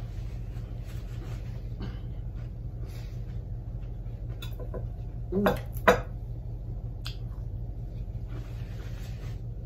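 Faint chewing over a steady low hum, with two brief clinks of dishes or cutlery a little past the middle.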